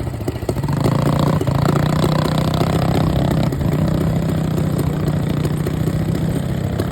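Honda three-wheeler's single-cylinder engine running steadily, revving up a little higher for a couple of seconds early on, then settling.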